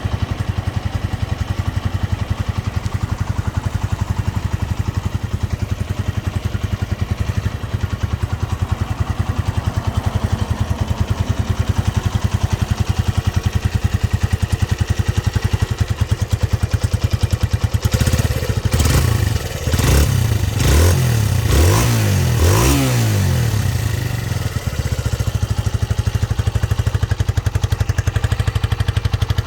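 Honda CB125JX single-cylinder four-stroke engine with its stock exhaust idling steadily, then revved in about five quick blips of the throttle around two-thirds of the way through before settling back to idle.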